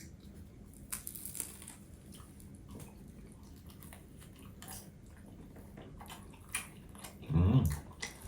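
Close-up eating sounds: chewing with scattered small clicks, and near the end a brief low voiced sound, like a short hum.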